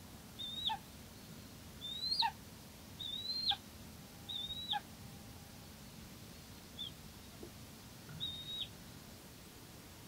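A bird calling repeatedly: about six short, high whistled calls, each held briefly and ending in a sharp downward drop, spaced one to two seconds apart.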